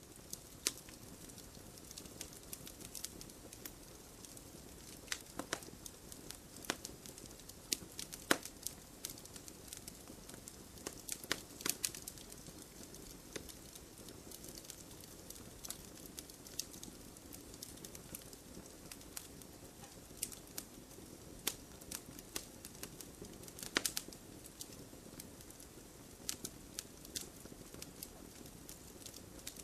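Wood campfire burning: irregular sharp pops and snaps over a steady low hiss of the flames.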